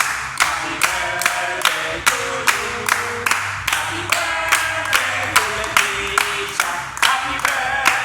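A group of voices singing together over a steady, sharp percussive beat of a little over two strikes a second.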